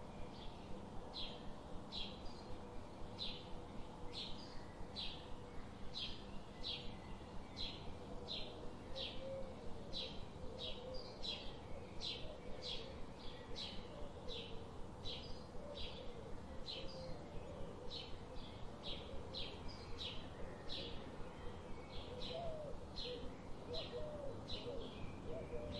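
A small bird chirping over and over, short sharp chirps about two a second, over a soft steady background hiss.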